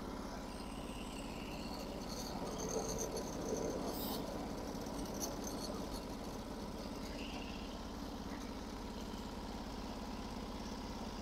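Norwood HD36 sawmill's engine idling steadily, with a few faint light clicks or rattles a few seconds in.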